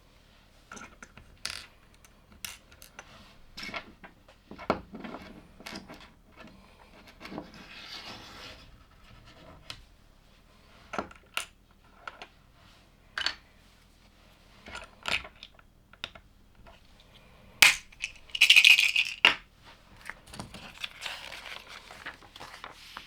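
Small plastic LEGO pieces clicking and clattering as they are handled and pressed together, in scattered irregular clicks. About two-thirds of the way through comes a sharp loud click, then a brief, louder clatter.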